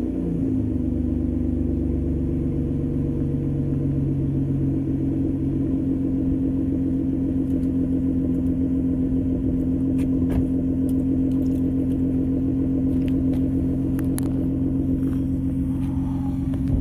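Dodge Journey's engine running at a steady speed while the freshly tuned SUV is driven, a constant drone with no revving.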